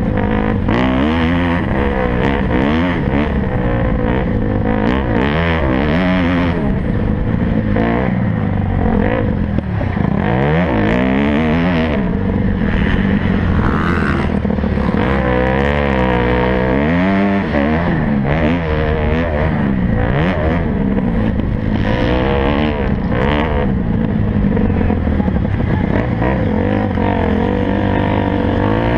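Motocross motorcycle engines racing, revving up and down over and over as the bikes accelerate, shift and back off around the track.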